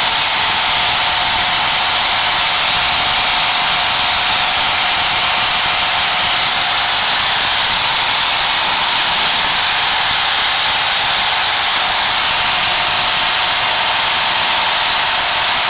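Loud, steady hiss of static on a Piper PA-28's intercom: the passenger microphone is picking up engine noise at high RPM, swamping the radio audio.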